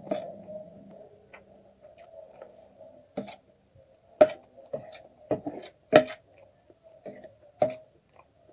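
Wet clicks and smacks of someone eating egg chowmein, about seven of them at uneven intervals, over a steady low hum.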